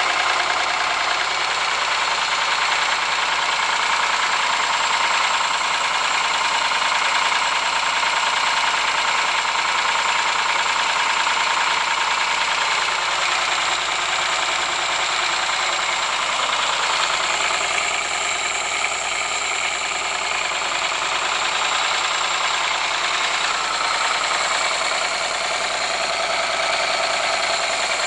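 Ford Sierra engine running steadily with a rapid knocking in it, the engine knock being recorded.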